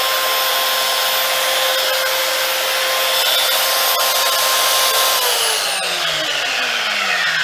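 Steinhaus PRO-BS1010 power tool's electric motor running at full speed with a steady whine, then switched off about five seconds in and spinning down, its whine falling in pitch.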